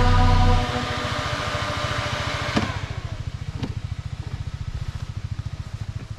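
Motorcycle engine running at low revs with an even pulsing beat, after background music cuts off under a second in. Two sharp knocks come through around the middle.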